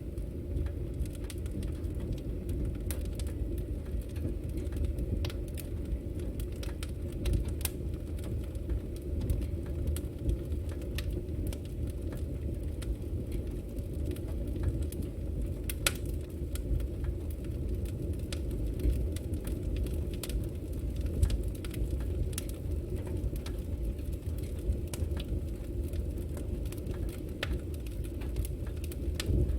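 Campfire burning: a steady low rumble of the flames with scattered, irregular sharp crackles and pops of the burning wood.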